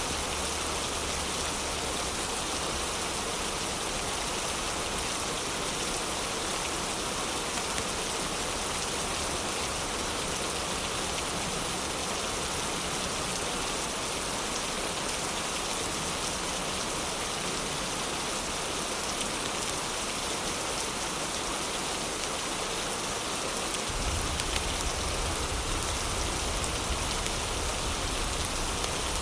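Heavy rain falling steadily in a dense, even hiss. About 24 seconds in, a deep low rumble comes in underneath and the sound grows slightly louder.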